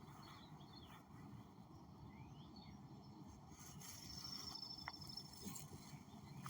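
Faint outdoor background noise: a low, steady rumble with a few faint bird chirps.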